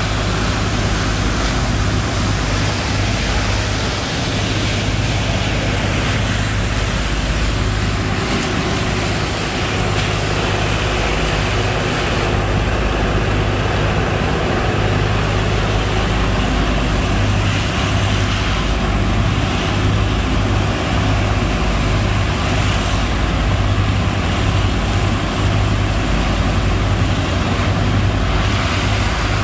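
Sand-pump engine running steadily under load, with a continuous rushing noise of sand and water being pumped from the boat.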